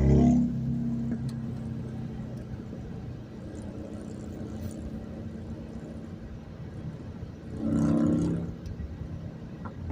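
Road traffic with a steady low rumble. A loud engine pass-by fades away just after the start, and a second loud vehicle engine goes by about eight seconds in, lasting about a second.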